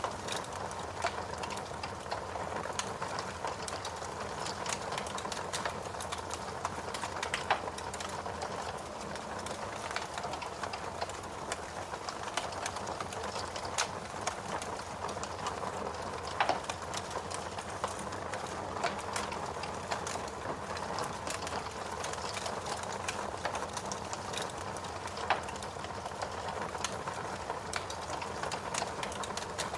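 Steady rain mixed with a crackling wood fire in a fireplace, with scattered sharp pops from the burning logs.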